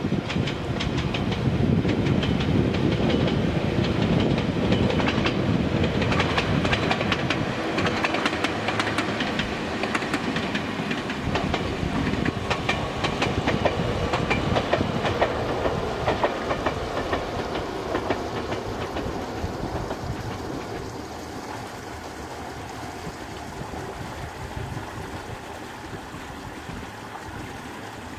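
Omi Railway 800 series two-car resistance-controlled electric train passing, its wheels clacking over rail joints over a steady rumble. The sound fades away over the last third as the train recedes.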